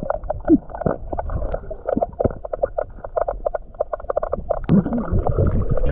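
Water splashing and sloshing in a swimming hole, many short irregular splashes, muffled.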